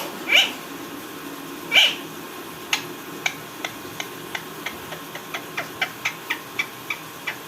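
A pet parrot calling: two loud, short rising calls, then a run of short, sharp chirps at about three a second.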